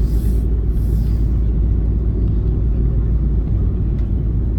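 Steady low rumble, with two brief high hisses in the first second and a half.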